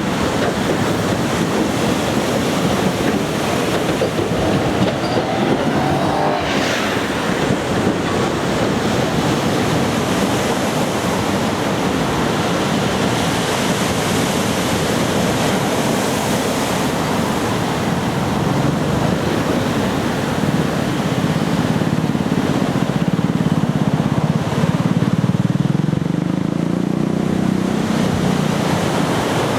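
Surf breaking along the beach under a steady wash of wind on the microphone. A vehicle's low rumble builds in the second half and passes.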